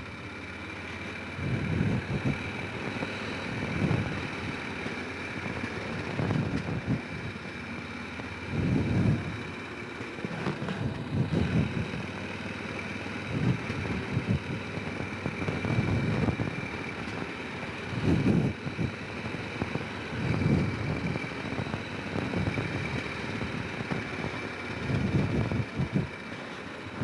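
Honda Rincon 650 quad's single-cylinder engine running while riding over rough ground, with low surges every couple of seconds and a thin steady high whine over the engine.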